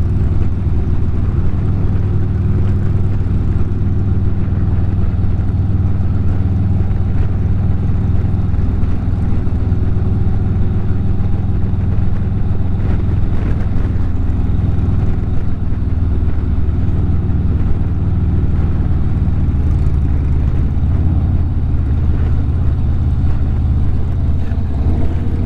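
Harley-Davidson motorcycle's V-twin engine running steadily at highway cruising speed.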